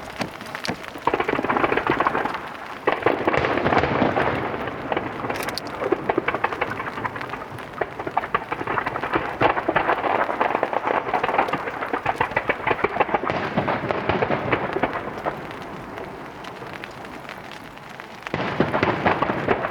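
Star mine fireworks barrage: a dense, continuous crackle of many small bursts with low booms, surging about a second in, about three seconds in and again near the end.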